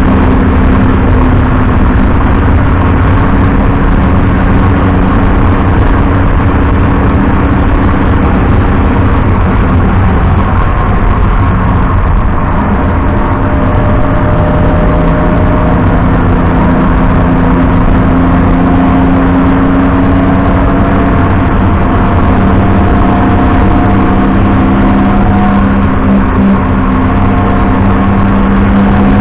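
Onboard sound of a BMW 330i E90's straight-six engine pulling under load over a heavy low rumble, its pitch climbing slowly over long stretches and dropping back now and then, with a dip about twelve seconds in.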